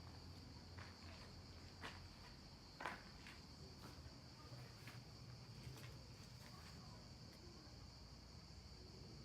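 Faint, steady high-pitched drone of insects, with a few scattered footsteps, the loudest about three seconds in.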